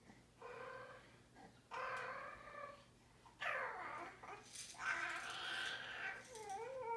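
A series of about five short, high-pitched vocal calls with wavering, bending pitch, one sweeping downward, from a small voice: a cat meowing or a baby babbling.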